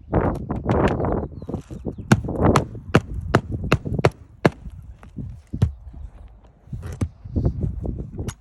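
Roofing work on asphalt shingles: scraping and rustling of the shingles, then a run of about nine sharp knocks of a metal tool, two or three a second, with a few fainter knocks near the end.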